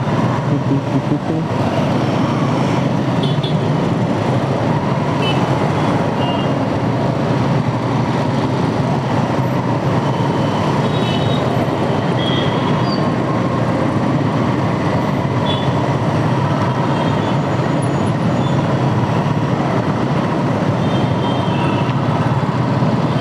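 Dense city traffic heard from a motorcycle stuck in a jam: a steady mix of engines idling and creeping, road noise and the rider's own bike. A few brief faint horn toots are heard now and then.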